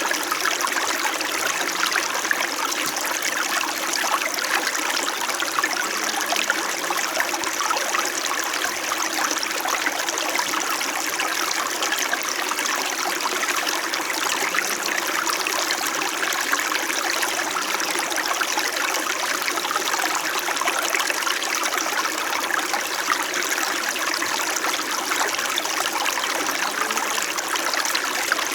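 Small brook flowing steadily, an even babble of running water with fine trickling detail and faint low gurgles now and then.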